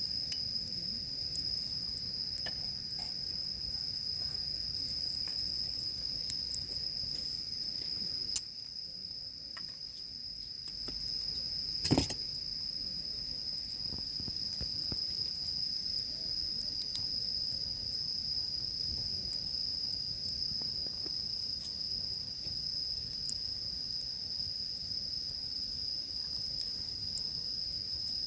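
Insects trilling in one steady, high, unbroken tone over a crackling wood campfire, with a sharp pop about twelve seconds in.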